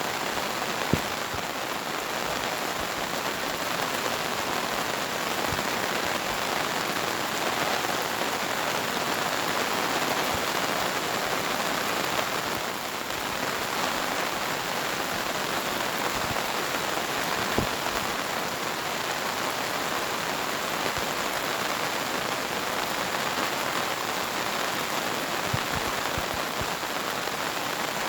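Steady pouring monsoon rain, with a few louder single drops standing out about four times.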